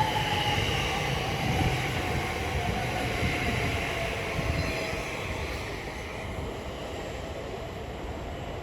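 Class 345 electric train pulling out of the station: wheels rumbling on the rails under a thin electric traction whine that slides slightly lower in pitch as the train draws away and fades.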